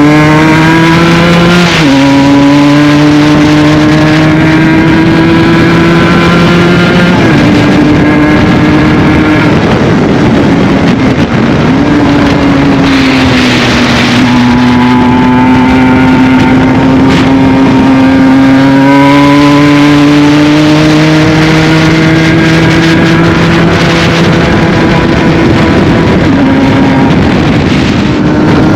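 Aprilia RS 125 single-cylinder two-stroke with an Arrow full exhaust, ridden under load: the engine note climbs steadily and drops sharply at upshifts, about two seconds in and again about seven seconds in, then eases off and pulls again through the middle.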